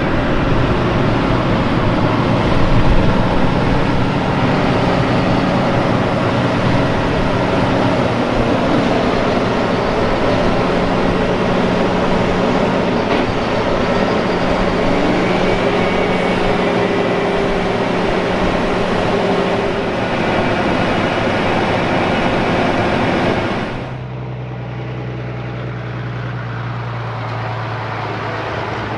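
Heavy harvest machinery running steadily, a loud engine with the rush of working equipment. About 24 seconds in it cuts abruptly to a quieter engine running at a lower pitch.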